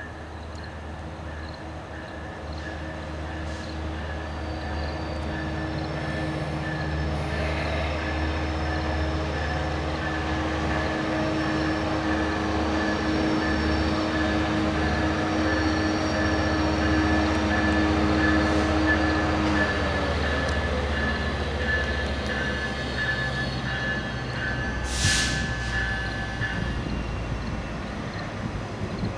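Metrolink F125 diesel-electric locomotive and its coaches pulling out under power, the engine note swelling and then easing off as the train moves past. A brief high-pitched squeal comes near the end.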